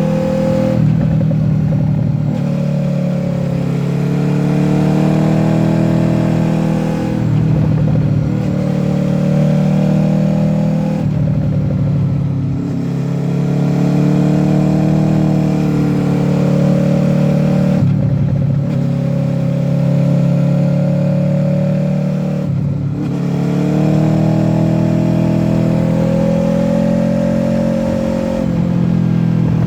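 Honda VFR800F's V4 VTEC engine through an SC-Project exhaust, under hard acceleration with the pitch climbing and dipping. Brief drops in the sound come every four to six seconds as the rider shifts or rolls off the throttle.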